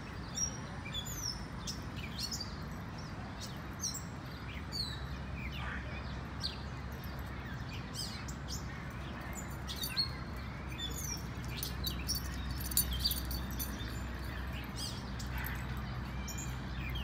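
Small birds chirping: many short, quick notes, some sliding down in pitch, repeating throughout over a steady low hum.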